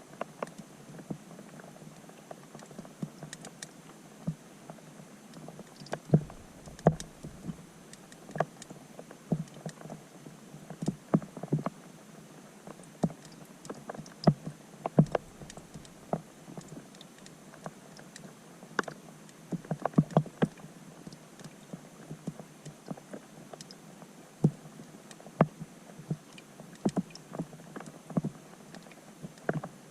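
Raindrops striking a pond's surface, heard underwater through a GoPro's waterproof housing: a faint steady hiss broken by irregular sharp knocks and plinks, several a second, some much louder than others.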